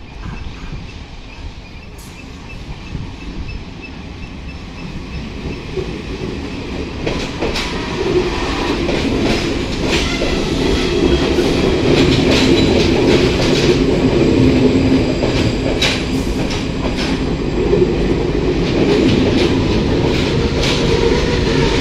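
Passenger train approaching and its coaches rolling past close by: a low rumble that grows louder over the first ten seconds or so, with the wheels clacking over rail joints.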